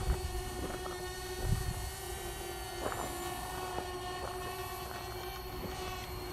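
Parrot Bebop quadcopter's four electric rotors giving a steady, even-pitched whine while it hovers, with low wind rumble on the microphone.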